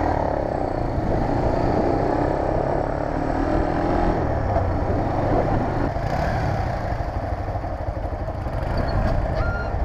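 Vehicle engines idling with a steady low drone.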